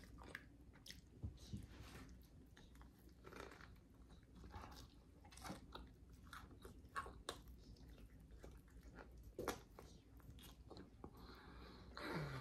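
Faint, close-up chewing and biting of a slice of loaded homemade pizza: soft, irregular mouth clicks and smacks, with a little crunch. A short low hum from the eater, falling in pitch, comes near the end.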